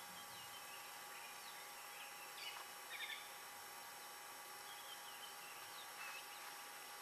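Faint, scattered short bird chirps, a few quick notes at a time, over a steady background hiss with faint constant tones.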